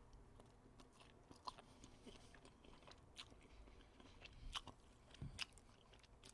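Faint chewing and crunching of food close to the microphone, with irregular small mouth clicks.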